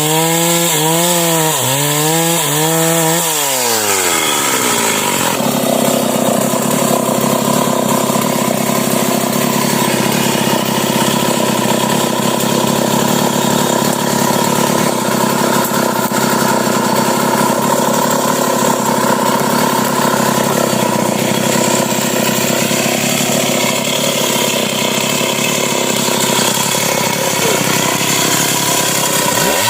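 Stihl MS 381 two-stroke chainsaw cutting through a sengon (albizia) trunk. Its pitch dips and recovers several times in the first few seconds, then drops and holds a steady loaded tone as the bar works deep in the cut. It revs up again at the very end.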